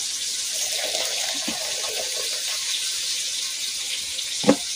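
Just-boiled water being poured from a kettle into cups for tea: a steady rush of pouring water, with one sharp knock about four and a half seconds in.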